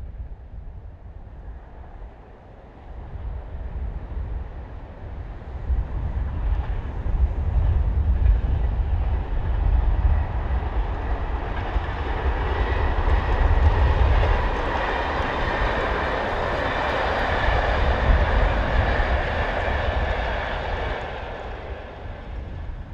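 A Class 73 locomotive hauling a rake of Network Rail test coaches past at speed. The rumble and rail noise swell over several seconds, peak around two-thirds of the way through, then fade as the train draws away.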